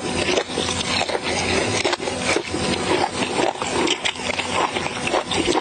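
Chewing and mouth smacking on a mouthful of food, a dense run of small clicks.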